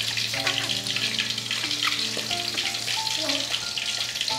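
Food frying in a pan on a gas stove, a steady crackling sizzle, with a soft melody of slow held notes underneath.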